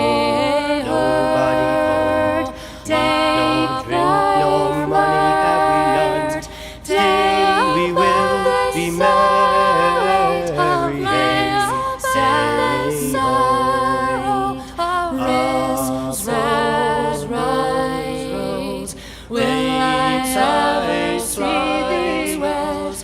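A cappella vocal music: several voices singing in harmony without instruments, in the manner of a sung round, with a low part under the higher voices.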